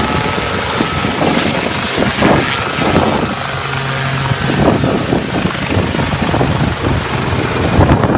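Helicopter running loud and close, its rotor and engine noise dense and rough, with irregular knocks through it.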